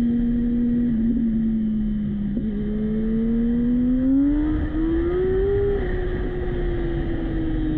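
Yamaha R1's inline-four engine running under way, its note holding steady, then climbing for a couple of seconds as the throttle opens and slowly dropping again as it eases off.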